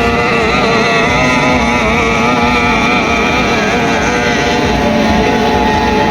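Power boat racing engine running steadily during a pre-race warm-up, its pitch wavering slightly up and down.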